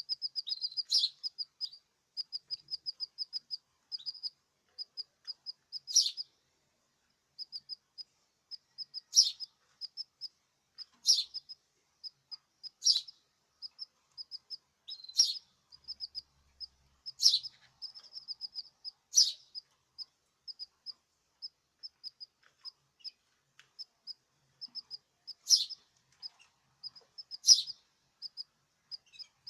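Caged small songbirds chirping: a steady run of short, high chirps several a second, broken by louder, sharp calls about every two seconds.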